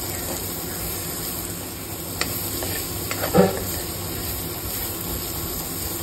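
Sliced onions, green chillies and curry leaves sizzling in hot oil in a kadai while being stirred with a steel spoon. The steady sizzle carries a couple of brief knocks of the spoon, the loudest a little past halfway.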